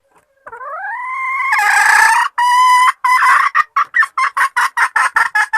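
Junglefowl hen calling to mate: a drawn-out note rising in pitch, a short held note, then a run of short clucks that quickens to about four a second.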